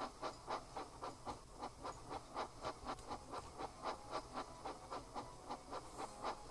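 Steam locomotive chuffing at a steady running pace, about four even puffs a second.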